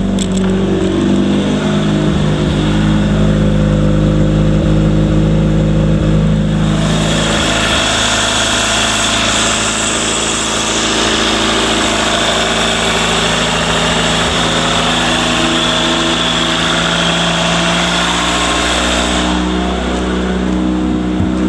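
1995 Toyota MR2's naturally aspirated 2.0-litre 3S-GE inline-four running steadily after starting. Its pitch settles in the first couple of seconds, and from about a third of the way in until near the end a brighter hiss rides over the running.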